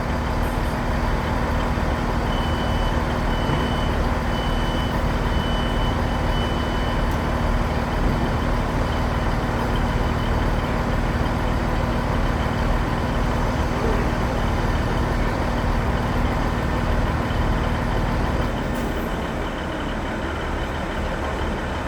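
A train standing at the platform with its engine humming steadily, under a run of about five high warning beeps a few seconds in. The engine hum drops away near the end.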